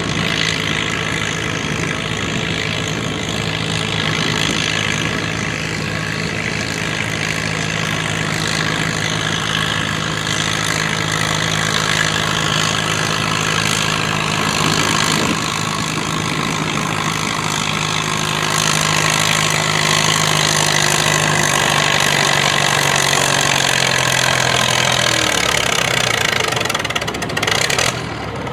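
Classic farm tractor's engine running steadily and loud, its pitch sinking as it slows about three-quarters of the way through and then fading out.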